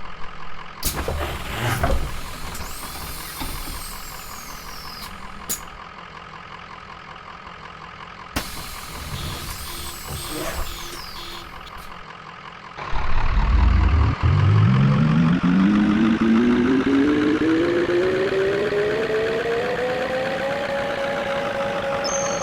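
Tram running quietly with two brief high falling squeals, then pulling away about 13 seconds in: its electric traction motors whine, rising steadily in pitch as it accelerates and levelling off near the end.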